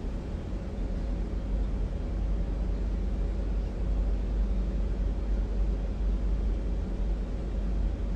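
Steady low rumble with a faint hiss of background room noise, no voice.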